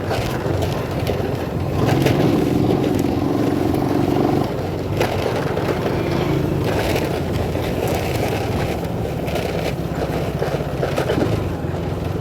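Motorcycle engine running while being ridden, a steady low engine note under road and wind noise. About two seconds in, a higher, louder engine tone holds for a couple of seconds, then drops back.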